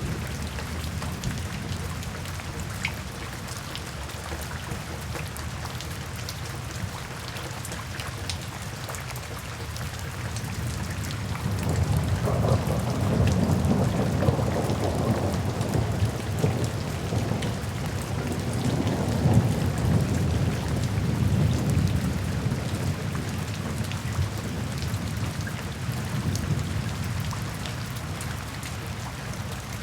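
Steady rain falling, with many sharp individual drop ticks. From about a third of the way in, a long low rumble of thunder swells, rolls on for over ten seconds and fades away near the end.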